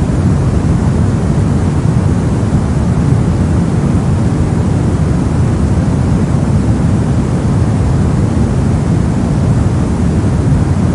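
Steady brown noise: a continuous, even rumble of random noise weighted heavily toward the low end, with no changes or events.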